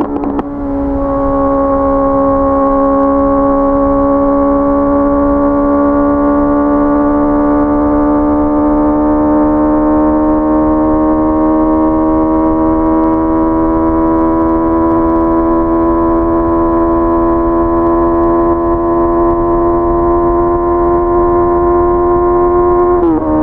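Honda CBR650R's inline four-cylinder engine under way, pulling in one gear with its note climbing slowly and steadily. The pitch drops sharply just after the start and again near the end, as the rider shifts up.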